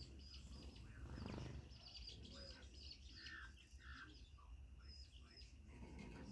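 Chickens and birds chirping faintly, many short calls scattered throughout, over a low steady hum.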